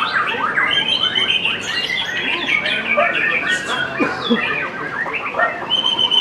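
White-rumped shama (murai batu) singing: a fast, unbroken stream of varied whistles, short trills and sliding notes.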